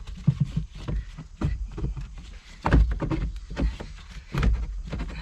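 Irregular knocks, clunks and rattles of plastic and metal parts being worked under a car's dashboard while trying to pull out the blower motor and HVAC box, over a low rumble. The heaviest clunks come a little under halfway through and again near the end.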